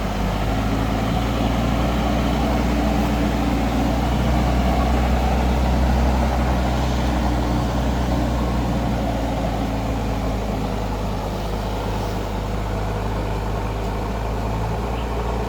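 Mahindra 4WD DI tractor's diesel engine running steadily, swelling a little louder a few seconds in, then easing back.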